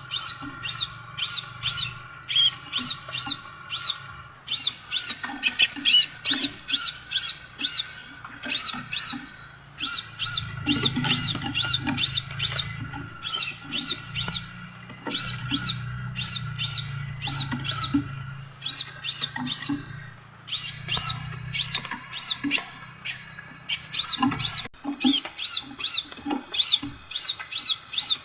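Scarlet minivet (sepah raja) song: bouts of sharp, high, rapidly repeated notes, about three to four a second, with short breaks between bouts.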